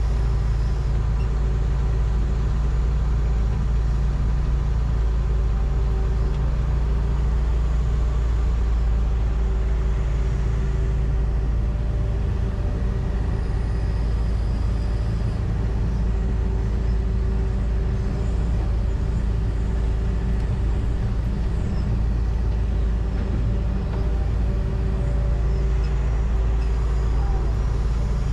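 John Deere 245G excavator's diesel engine running steadily under load, heard from inside the cab as a constant low drone. A faint high whine comes and goes twice.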